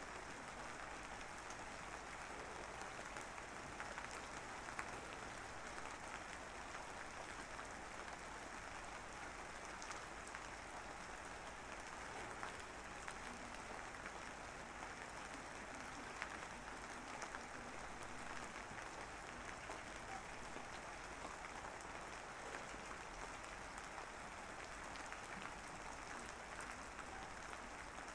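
Steady rain-like background noise, an even hiss with faint scattered ticks.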